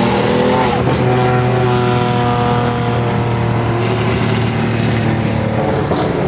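Car engine running while driving, with a brief dip and recovery in pitch about a second in, like a gear change. After that the engine note eases slowly lower.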